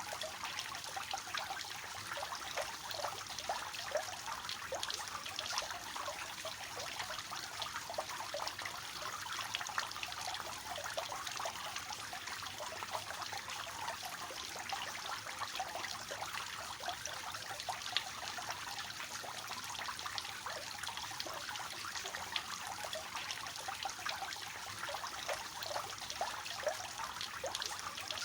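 Water falling and splashing steadily in a three-tiered cascade fountain, a continuous trickling with many small splashes.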